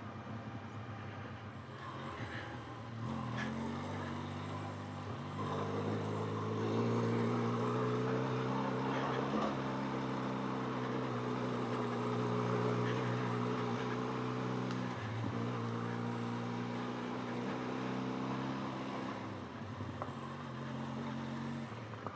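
Benelli TRK 502X's parallel-twin engine pulling under throttle, growing louder a few seconds in and holding steady, with a short break about two-thirds through and easing off near the end.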